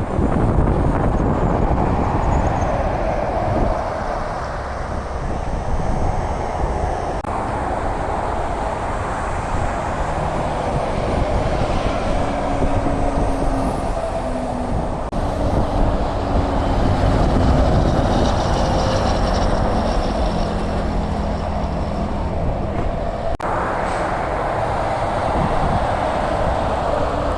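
Road traffic with heavy trucks going by: a steady rush of tyre and road noise. Truck engine tones rise and fall through the middle of the stretch.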